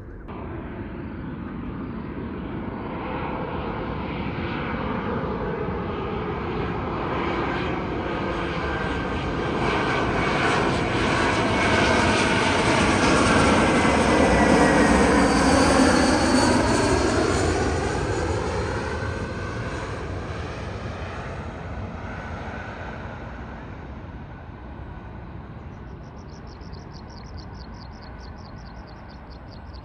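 A jet airliner flying past. Its engine roar swells steadily to a peak about halfway through, then fades away. Near the end comes a rapid, high-pitched chirping.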